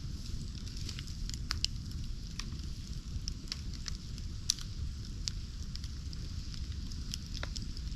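Bonfire burning, with sharp crackles and pops scattered through it over a low steady rumble.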